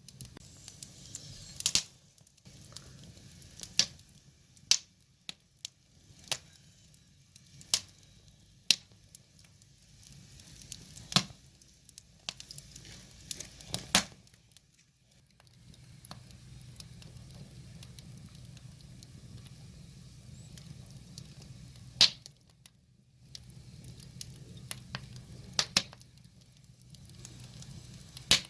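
Wood fire crackling: irregular sharp pops and snaps, about a dozen loud ones scattered through, over a low steady rumble of the flames.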